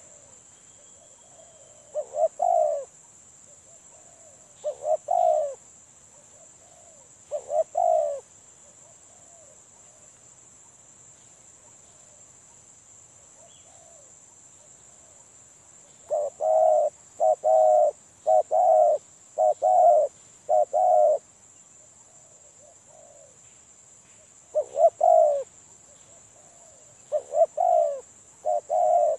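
Spotted dove (tekukur) cooing: short low coo phrases every few seconds, then a quick run of repeated coos about sixteen seconds in and more toward the end.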